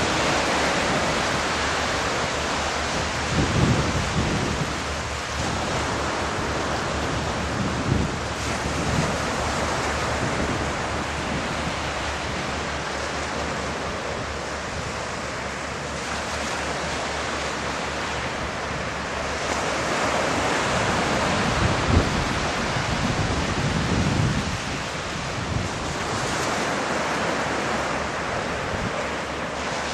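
Steady wind and surf noise, with gusts buffeting the microphone a few times.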